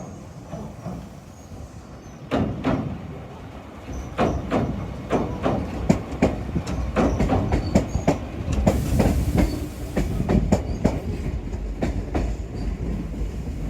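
Shizuoka Railway electric train passing, its wheels clacking over rail joints: a rapid, irregular run of sharp clicks over a low rumble that grows louder about two seconds in and again about four seconds in. A brief hiss rises about nine seconds in.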